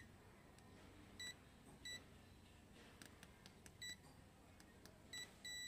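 Multimeter continuity tester beeping as the probes touch points on a circuit board: several short, faint beeps, then a steady beep near the end as a connection is found, with a few soft probe ticks in between.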